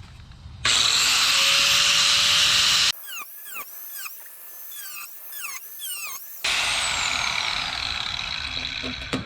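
Die grinder with a cutoff wheel cutting a square out of a rusted steel car door, in two loud stretches of grinding with a steady high whine. Between them is a quieter stretch of repeated short, falling squeaky chirps.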